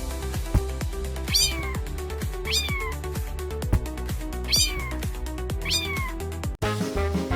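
Cat meows, four falling calls spaced about a second or two apart, set over background music with a steady beat. The music cuts out briefly and changes near the end.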